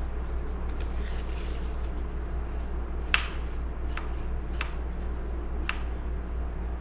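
Hand work on a small chainsaw's starter housing as it is taken off: a soft rustle, then four sharp clicks over the next three seconds, the first the loudest, over a steady low hum.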